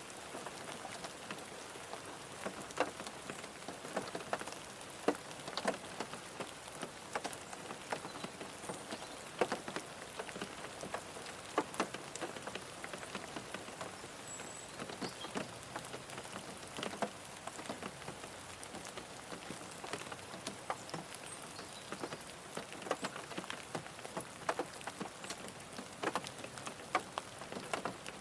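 Rain falling on a car: a steady hiss with many individual drops tapping at irregular intervals.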